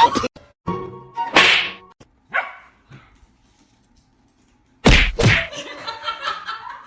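A dog barking: a few short barks in the first three seconds, then a brief silence and two loud barks in quick succession about five seconds in.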